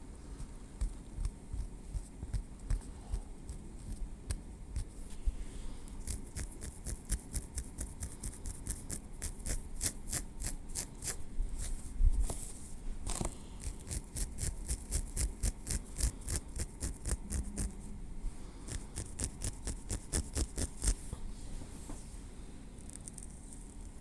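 Metal tweezers working on the scalp and through hair: a quick run of crisp little clicks and taps, several a second, with a louder knock about halfway, dying away near the end.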